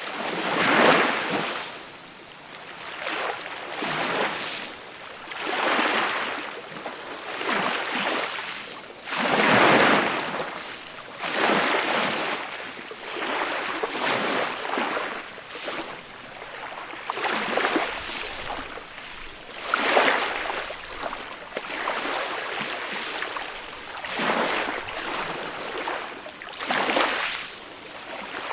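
Small, gentle waves breaking and washing up a beach, a fresh wash swelling and fading every couple of seconds, with stronger breaks about a second in, near ten seconds and near twenty seconds.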